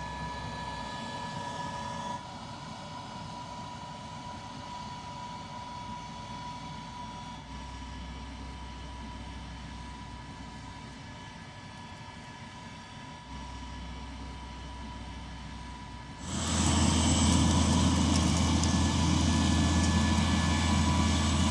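Tractor pulling an air drill: a steady machine drone with a thin steady whine. About three-quarters of the way through it turns suddenly much louder, with a strong deep hum.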